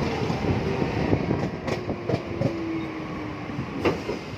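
Train running on the track: a dense rumble with sharp clicks of wheels over rail joints and a faint, steady squeal in the middle, easing slightly near the end.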